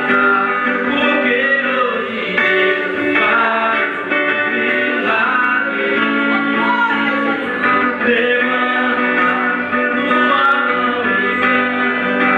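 Live worship music with guitar and singing, a steady dense sound of held chords and a voice line over them.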